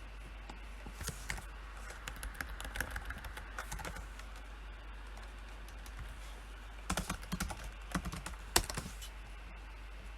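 Typing on a computer keyboard: two spurts of quick keystrokes, the first about a second in, the second after a pause of a few seconds, with one sharper keystroke near the end.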